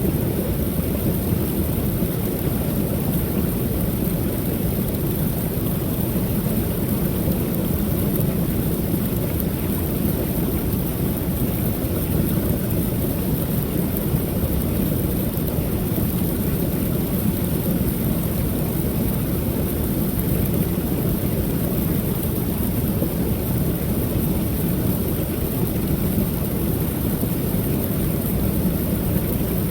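Small creek waterfall pouring steadily, a continuous low rush of falling water with no breaks.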